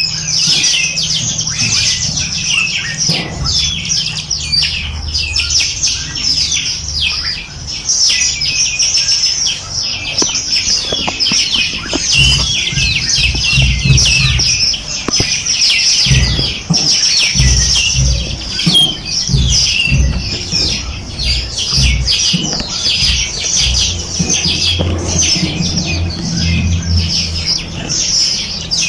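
A dense chorus of many small birds chirping and trilling rapidly and continuously, with an intermittent low rumble underneath.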